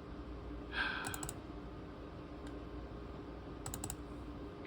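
Faint clicks from a ThinkPad T23 laptop's keys and buttons, a short cluster about a second in and another near four seconds, over a steady low hum.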